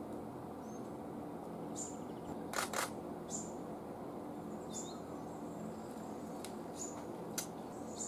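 Short, high chirps from a small bird repeating roughly every one and a half seconds over a steady background hum, with a quick, louder double rustle about two and a half seconds in.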